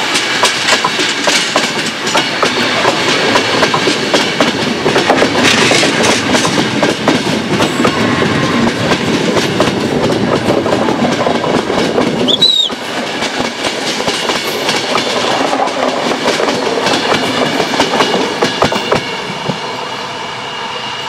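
Passenger train of coaches with an electric locomotive rolling over curved station track: steady wheel-on-rail rumble with clickety-clack over rail joints and points. About halfway through comes a brief high squeal, and the sound slowly fades near the end as the train moves away.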